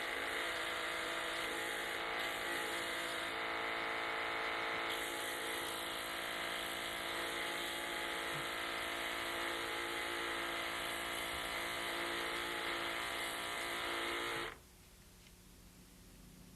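Small electric motor of a dental-instrument honing machine running steadily, spinning a round hone while an instrument edge is held against it. It hums evenly, then cuts off suddenly near the end.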